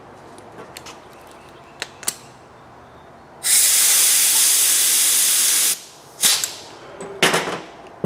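Compressed shop air hissing into a pre-oiler for about two seconds, forcing motor oil through the engine's oil galleries to prime it; two shorter spurts of air follow near the end.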